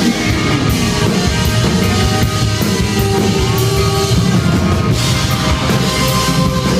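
Live band playing an instrumental passage of a country-rock song, with held guitar notes over a drum kit and regular cymbal hits.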